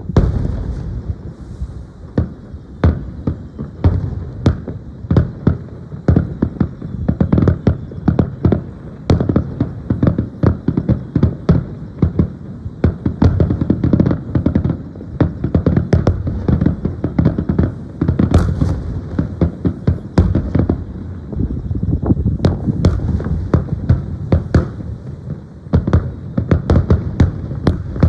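Aerial fireworks going off in a dense, continuous barrage: several sharp bangs a second over a steady rumble of booms.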